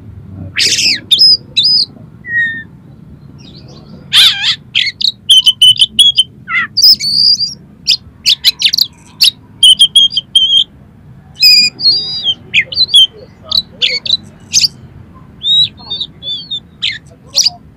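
Oriental magpie-robin (kacer) singing a loud, varied song of short whistles, rising and falling sweeps and harsh rasping notes, delivered in irregular bursts with brief pauses.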